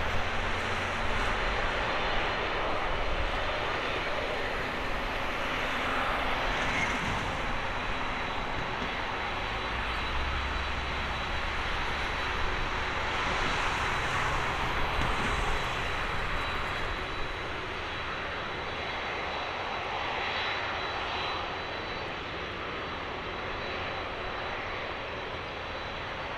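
Boeing 767-300F freighter's twin jet engines running, a steady, dense roar with a faint high whine, easing off a little about two-thirds of the way through.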